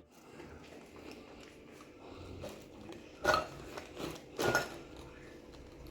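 Dishes and cutlery clinking: a few light knocks, with two sharper clinks a little past the middle, the second ringing briefly.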